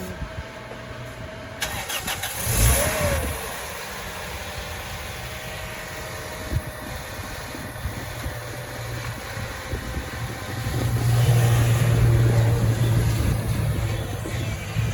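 A car engine starts about two seconds in and runs steadily. From about eleven seconds it grows louder and deeper for a couple of seconds before easing back.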